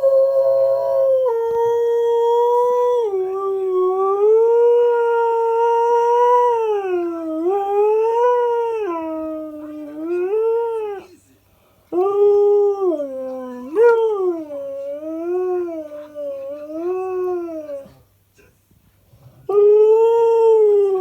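Husky-malamute mix howling and 'talking' in long, drawn-out calls whose pitch wavers and slides up and down. There are three long stretches, with short breaks about eleven and eighteen seconds in.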